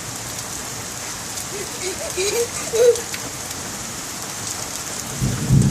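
Steady heavy rain pouring down and pattering on surfaces, with a child's faint voice briefly about halfway through and a low rumble near the end.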